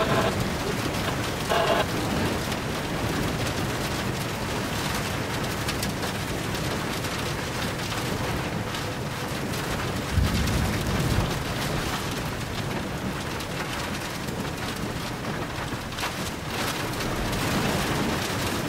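Steady hiss of storm rain and wind, heard from inside a vehicle, with a low rumble about ten seconds in.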